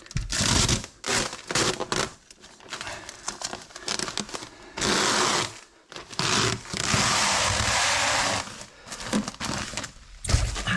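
Paper being handled: crinkling and rustling, with several long noisy stretches of paper being pulled or torn, the longest nearly two seconds near the middle.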